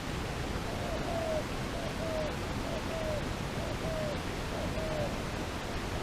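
A dove cooing: about five short two-note coos, a brief note followed by a longer, slightly falling one, roughly one a second, over a steady hiss.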